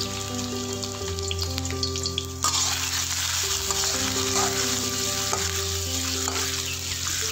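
Pounded garlic, shallot and chilli frying in hot oil in a wok, sizzling as a metal spatula stirs and scrapes through it; the sizzle grows suddenly louder about two and a half seconds in. Background music plays under it.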